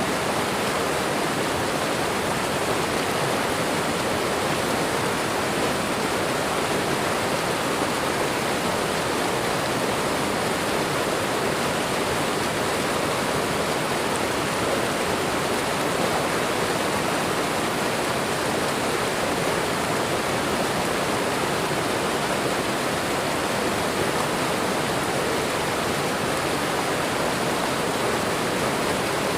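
Waterfall and running water rushing in a steady, unbroken stream.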